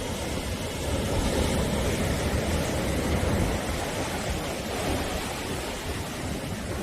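Sea surf washing onto the shore: a steady hiss of breaking waves with a low rumble underneath, swelling gently in loudness a couple of times.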